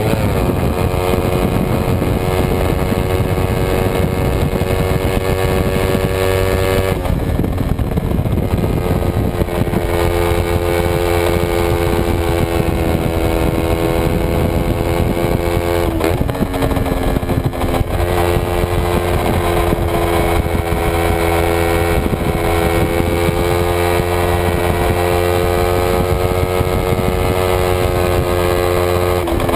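Kawasaki Ninja 250 race bike's parallel-twin engine running hard at high revs, heard onboard. Its pitch dips sharply and recovers a few times with gear changes.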